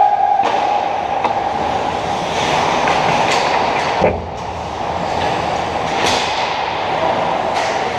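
Steady mechanical running noise with a pitched whine, broken by irregular sharp clicks and knocks, one louder knock about halfway through.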